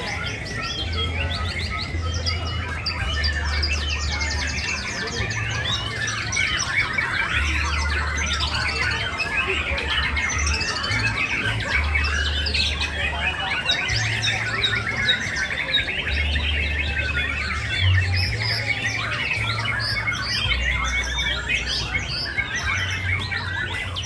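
Many caged contest songbirds singing at once: a dense chorus of overlapping whistles, trills and rapid chirps, none standing out on its own.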